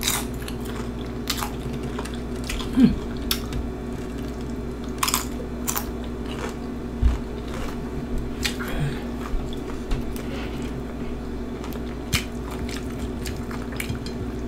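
Close-up eating of nachos made on tortilla chip scoops: irregular sharp crunches every second or few as the chips are bitten and chewed, over a steady low hum.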